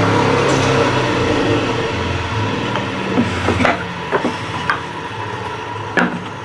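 Table saw motor and blade winding down after being switched off, the hum slowly fading. From about halfway through come several sharp wooden clicks and knocks, from cut picket pieces being handled and set down.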